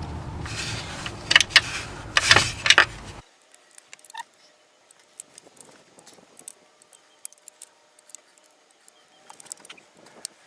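Hand tools clicking and clinking on metal as a torque wrench and socket work the intake manifold bolts. There are a few sharp clicks in the first three seconds, then the background noise cuts off suddenly, leaving only faint, scattered ticks.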